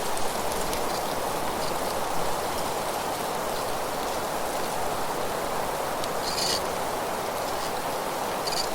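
Steady wind with rustling leaves, an even hiss throughout. Two short high-pitched sounds break through, one about six seconds in and one near the end.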